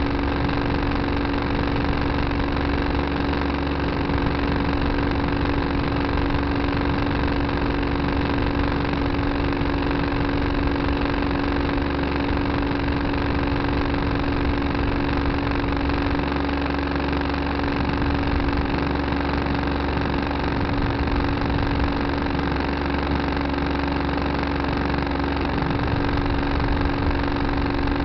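Tractor engine running steadily, a constant pitched hum over a low rumble with no change in speed.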